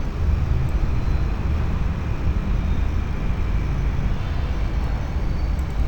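Steady low rumbling background noise from the recording's surroundings, even throughout, with no distinct events.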